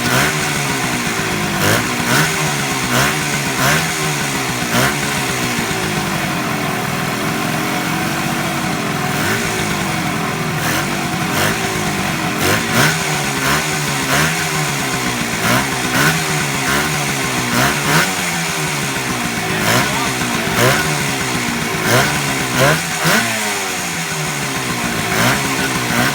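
1972 Suzuki T250's two-stroke parallel-twin engine running on its first start in decades, the throttle blipped over and over so the pitch rises and falls every second or two, with frequent sharp pops.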